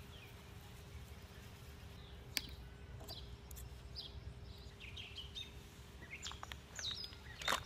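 Quiet outdoor background with small birds chirping faintly and a faint steady hum, broken by a few light clicks, the sharpest about two and a half seconds in.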